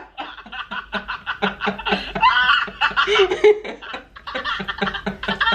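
People laughing hard in quick repeated bursts, with a few words mixed in.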